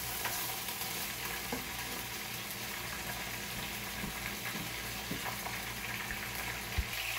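Chicken pieces frying in a little oil in a nonstick wok, giving a steady sizzle.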